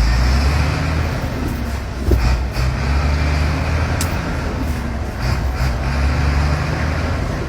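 Sinotruk heavy truck's engine pulling through gear changes. Its low note dips and picks up again about two seconds in and again near five seconds, with a few short bursts of hiss.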